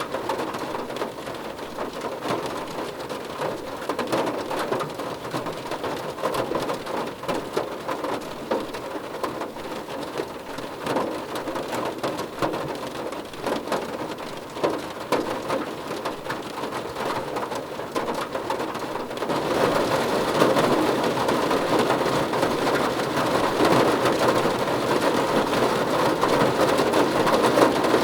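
Rain pattering on a car roof, a dense patter of many small drop hits; about two-thirds of the way through it gets louder and heavier.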